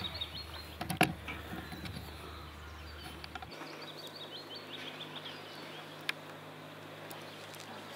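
A songbird singing runs of short, quick chirps, with a few sharp knocks, the loudest about a second in.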